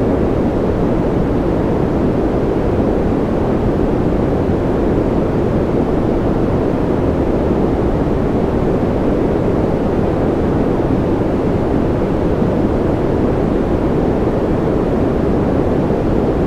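Continuous generated noise for sleep, billed as white noise, holding steady at one level with no variation. Its weight sits in the low and middle range and thins out toward the top, so it sounds like a deep, even rush rather than a bright hiss.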